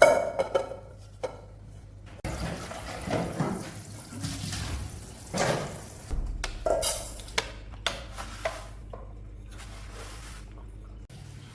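Dishes clinking, with splashing water, in several short pieces with abrupt changes between them.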